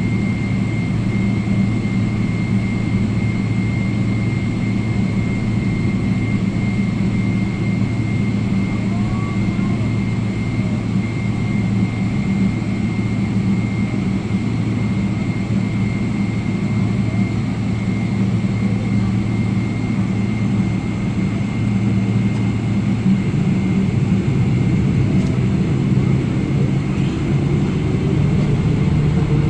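Cabin noise of a Boeing 777's jet engines running, with a steady high whine over a low hum. Over the last several seconds the engine note climbs in pitch and grows louder as thrust comes up for take-off.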